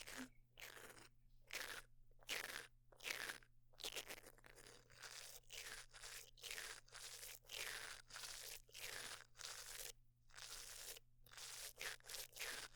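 Close-miked crunchy scratching strokes from an ASMR trigger object, standing in for a dentist working over the teeth. They repeat in an even rhythm about every half second, some sweeping downward.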